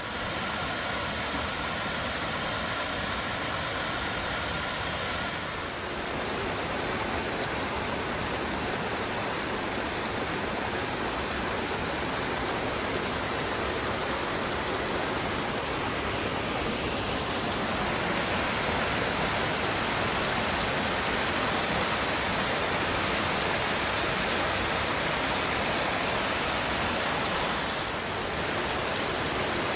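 Steady rush of water spilling over small waterfalls and cascades between boulders in a rain-swollen mountain stream, shifting slightly in tone about six seconds in and again near the end.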